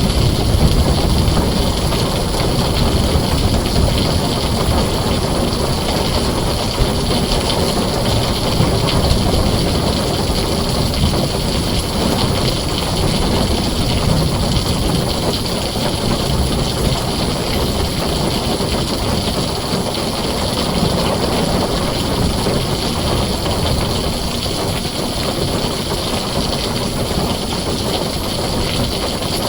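Heavy rain drumming steadily on a tin roof, a dense even noise with a deep low rumble underneath.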